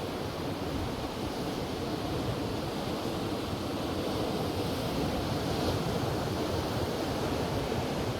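Ocean surf washing onto a beach in steady wind, with wind noise on the microphone; the sound swells slightly around the middle.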